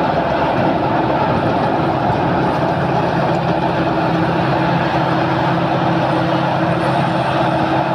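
Sakphatthana KM-D rice combine harvester running steadily, a constant engine drone with the clatter of its machinery.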